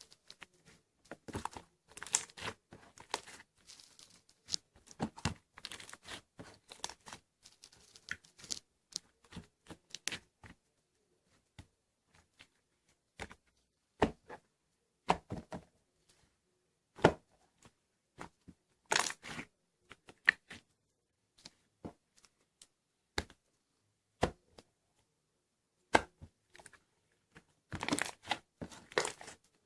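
Slime being worked by hand, giving many short crackles and tearing sounds: thick at first, sparse through the middle, then a dense run near the end.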